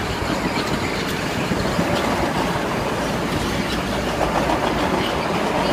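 A train running on the tracks: a steady rumble with scattered light clicks.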